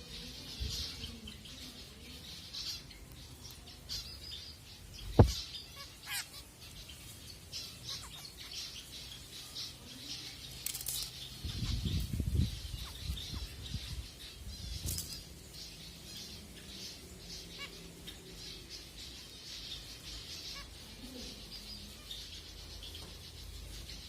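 Zebra finches chirping in a steady chatter of short, high calls, with wings fluttering. A sharp click about five seconds in is the loudest sound, and a flurry of low flaps comes around the middle.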